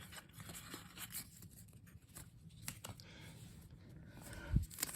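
Faint rustling and soft clicks of trading cards being handled, with a single low thump near the end.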